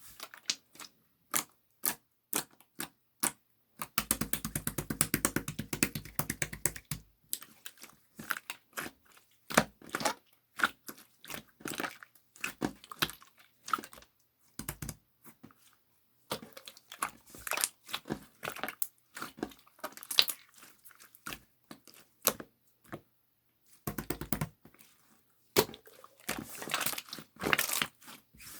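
Slime being squished and pressed by hand, making sharp popping clicks and crackles. Dense runs of rapid crackling come about four seconds in and again near the end.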